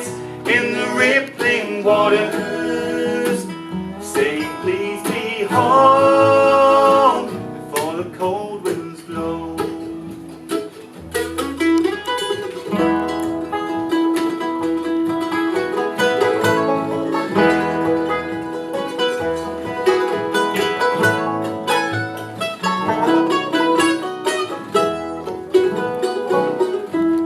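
Live bluegrass band with banjo and guitar playing the end of a ballad. Long held sung notes come at the start and again about five seconds in, then an instrumental outro of banjo and guitar picking.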